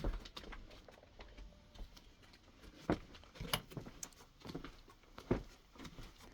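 Irregular light taps and knocks, with louder ones about three seconds in, half a second later, and just past five seconds, in a small enclosed space.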